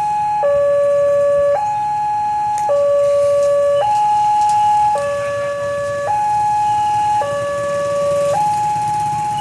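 Railway level-crossing warning alarm sounding its two-tone signal: a high tone and a lower tone alternate evenly, each held a little over a second, over a low background rumble. The alarm means a train is approaching the crossing.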